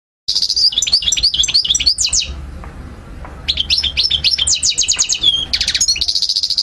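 European goldfinch singing: fast, high twittering phrases of quick chirps and trills in two runs, with a short pause about two seconds in.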